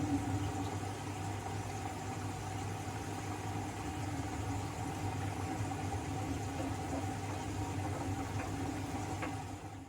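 Siemens WM14T490 front-loading washing machine running a wash cycle, its motor and drum giving a steady humming drone; the machine has worn drum bearings.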